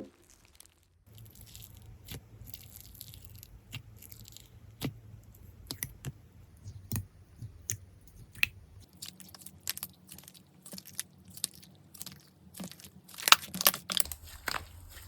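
Hands pressing and working slime, giving a run of irregular sharp clicks and crunchy crackles that grow denser and louder near the end.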